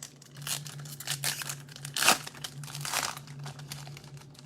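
Baseball card packs and cards being handled: crinkling and rustling of wrappers and card stock, with a sharper crackle about two seconds in.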